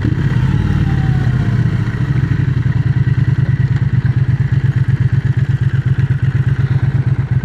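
Triumph Speed Twin 1200's 1200 cc parallel-twin engine running under way, a low, evenly pulsing beat, picked up by a helmet-mounted microphone.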